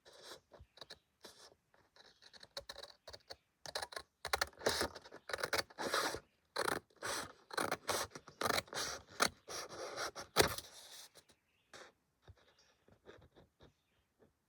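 Paper being handled and worked: a run of irregular scraping and rustling strokes, densest in the middle and thinning out near the end.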